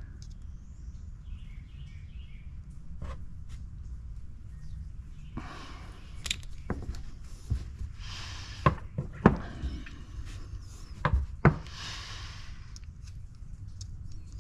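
Pressure-washer pump parts being handled by hand: scattered sharp clicks and knocks with a few short rustling scrapes, bunched in the second half, over a steady low hum.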